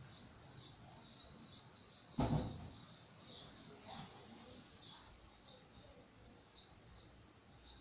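Small birds chirping steadily in the background, a quick run of short, high, downward-sliding chirps several times a second. About two seconds in there is a single dull thump, the loudest sound.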